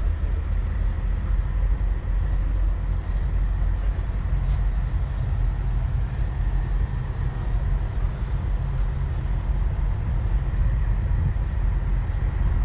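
Steady low rumble of idling engines, with a faint steady high whine over it.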